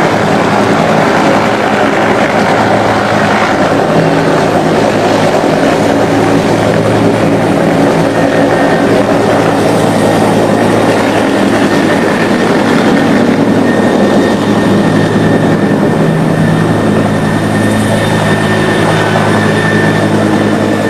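Loud, steady engine drone with a low hum under a wide rushing noise, holding level throughout.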